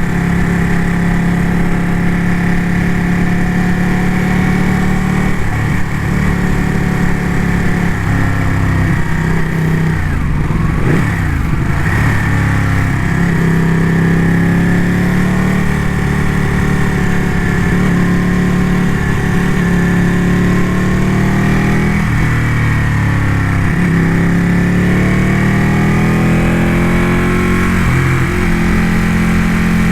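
Ducati motorcycle engine running under way, its pitch dipping and climbing a few times with throttle and gear changes, most clearly about a third of the way in.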